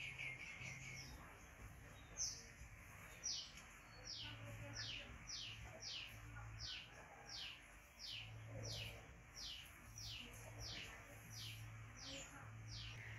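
A bird repeating a short, high note that falls in pitch, about twice a second, starting a few seconds in.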